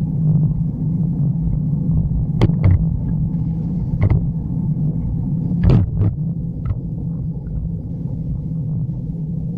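Steady low rumble of wind and tyre noise on a camera riding along on a bicycle, with a handful of sharp clicks or knocks from the bike.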